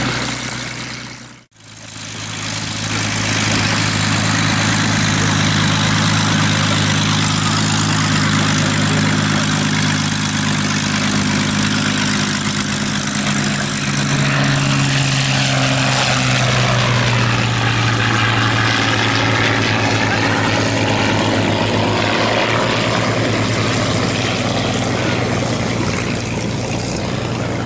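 Rolls-Royce Merlin V12 piston aero engines of WWII fighters running with a steady drone. The sound drops out for a moment about a second and a half in, then returns, and the pitch shifts a little partway through.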